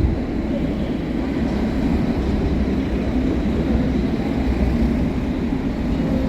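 A train moving on the tracks at a railway station platform, a steady low rumble.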